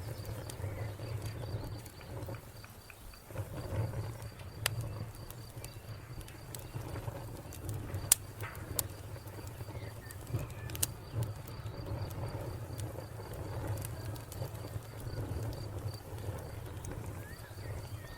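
Wood fire crackling over a low, uneven rumble, with a few sharp pops, the loudest about eight seconds in. A cricket chirps steadily in quick, even pulses throughout.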